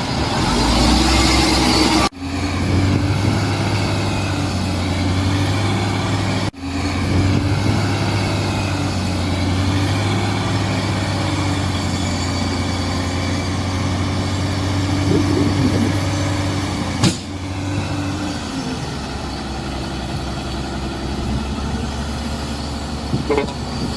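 Heavy diesel earthmoving machinery running with a steady engine note. The sound cuts off abruptly for an instant about two seconds in and again about six seconds in, and the engine note drops lower a few seconds past the middle.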